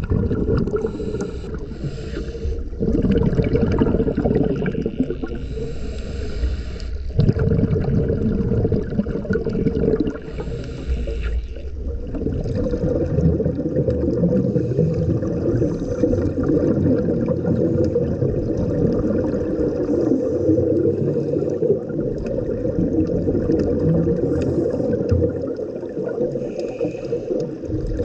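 Underwater rumble of water moving around the microphone, with a few brief bursts of bubbling hiss in the first half.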